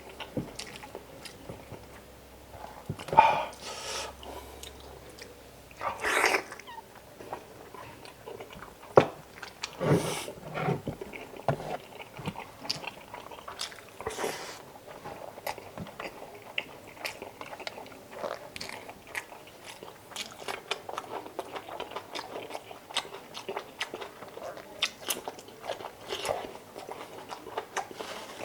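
A person chewing and biting chicken adobo, heard up close: a steady run of small mouth clicks with a few louder bites about 3, 6 and 10 seconds in.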